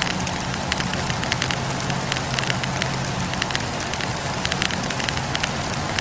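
Wood campfire burning, with a constant hiss and frequent irregular crackles and pops from the burning logs, over a steady low hum.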